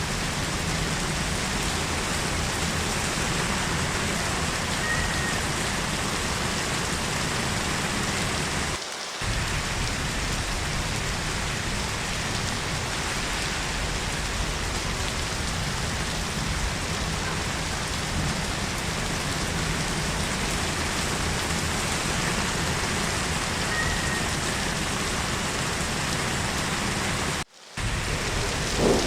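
Heavy rain falling steadily, an even hiss with no single drops standing out. It dips slightly about nine seconds in and cuts out for a moment near the end.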